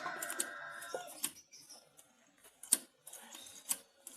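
Scattered sharp clicks from a screwdriver working the adjusting screw of a motorcycle cam chain tensioner, a few over about three seconds. In the first second a rooster's crow trails off in the background.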